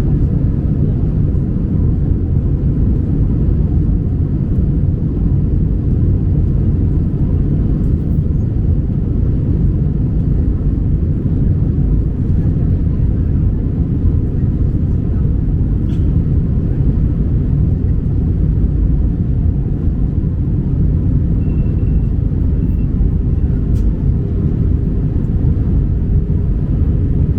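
Steady low rumble inside the cabin of a British Airways Airbus A319 on its approach, the jet engines and the airflow over the fuselage making an even noise that doesn't change.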